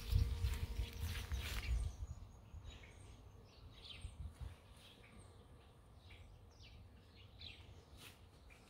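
A low rumble on the microphone for the first couple of seconds, then faint, scattered short chirps of small birds.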